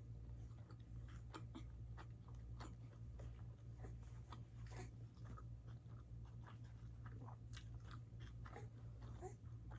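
Close-miked chewing and small wet mouth clicks of a person eating, irregular throughout, over a steady low hum.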